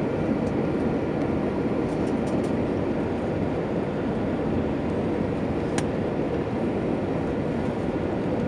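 Steady rumble of an Airbus A320's passenger cabin on arrival, the engines and airflow heard from a window seat, with one faint click about six seconds in.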